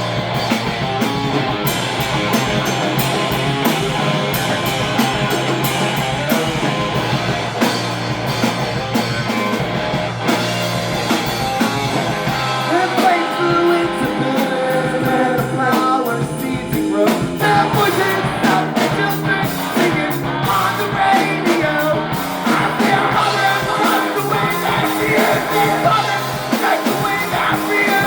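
Live surf-punk band playing loud: electric guitars, bass and drum kit, with some singing.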